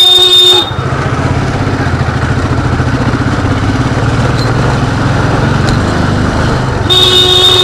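Motorcycle engine running at low speed. A horn sounds over the first half-second and again near the end, louder than the engine.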